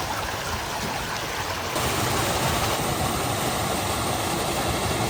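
Stream water running: a steady rush that turns louder and fuller about two seconds in.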